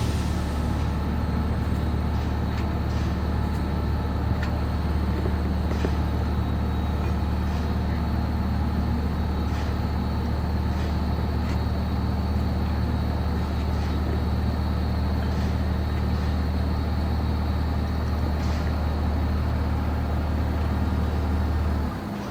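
The sailboat's engine running steadily at a constant low hum, dropping off in level near the end.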